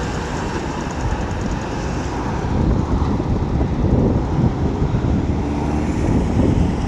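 Road traffic with heavy lorries: a steady low rumble of engines and tyres, growing a little louder about halfway through.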